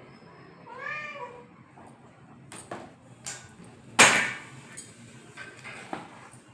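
A domestic cat meows once, a short call rising and falling in pitch, about a second in. Then come several sharp knocks and clatters, the loudest about four seconds in.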